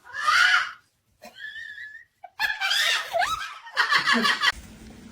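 Several short bursts of cackling laughter, with a brief whistle-like note about a second and a half in.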